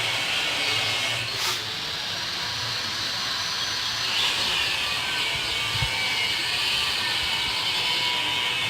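A steady hiss, strongest in the upper range, with a short sharp sound about one and a half seconds in.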